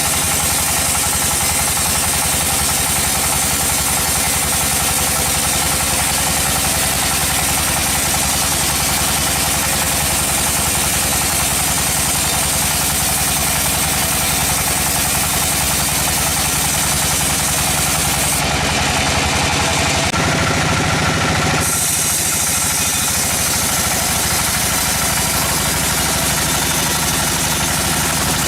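Sawmill engine running steadily at an even speed. Its tone changes for about three seconds around eighteen seconds in, then returns to the same steady running.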